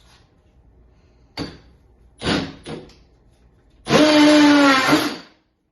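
Milwaukee M12 FUEL cordless hammer drill on low speed driving a large screw: a few short bursts of noise, then about a second and a half of steady motor whine under load that dips slightly and stops as the screw goes home.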